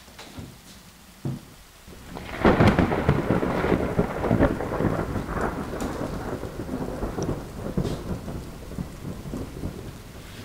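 Thunder: a sudden loud rumble about two seconds in that rolls on and slowly fades, over a steady patter of rain. A short thump comes shortly before the thunder.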